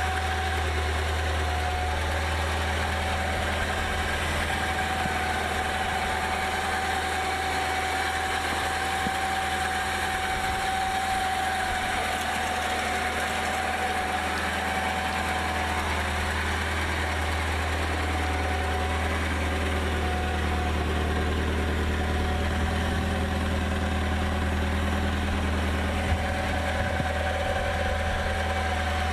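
Porsche 924S 2.5-litre four-cylinder engine idling steadily, heard close from outside the car.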